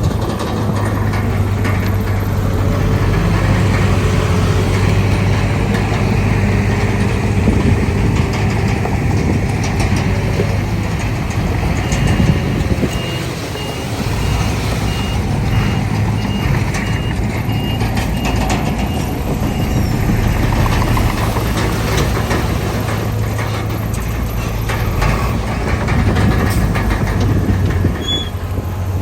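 Heavy diesel earthmoving machinery, a bulldozer and dump trucks, running steadily. For several seconds midway a reversing alarm sounds a regular string of high beeps.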